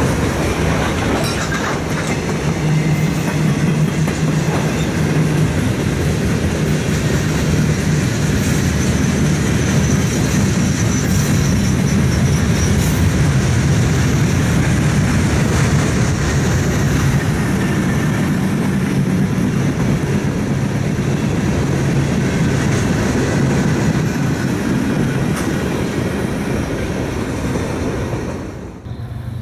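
A train rolling past, its wheels clattering steadily over the rails, with a steady low hum underneath. The sound drops away suddenly near the end.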